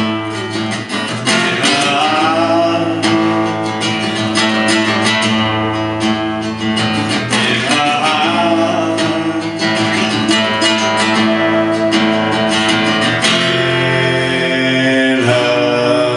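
Guitar strummed, chords ringing through an instrumental passage of a song.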